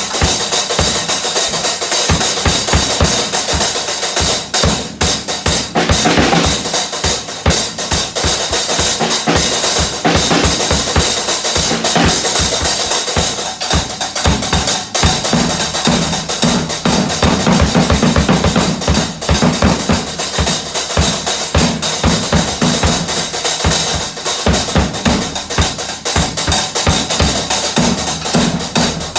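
Drums played fast and without a break, a dense run of quick strokes with heavy low hits throughout.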